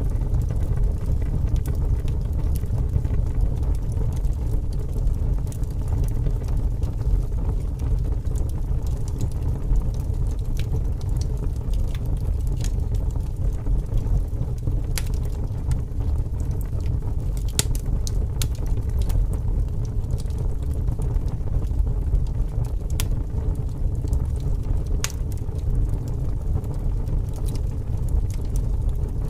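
Wood fire burning, with scattered sharp crackles and pops of the logs over a steady low rumble of strong wind.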